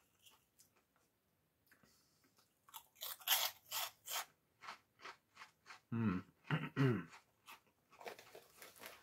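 Crunching and chewing of crisp, hollow corn snacks (cheese and bacon Cornados), starting about three seconds in as a quick run of sharp crunches. A short hum from the eater comes around six seconds in, and faint crackles follow near the end.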